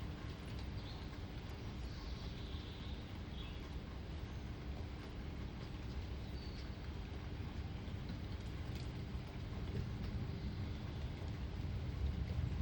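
Steady outdoor ambience: a low rumble and light hiss, with a few faint bird chirps about two seconds in and again around six seconds.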